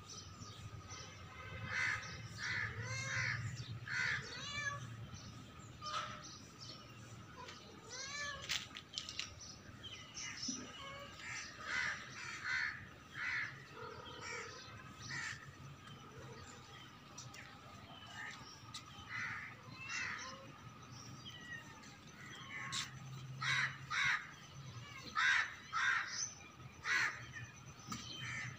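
Birds calling over and over outdoors, many short calls coming in quick runs of a few at a time.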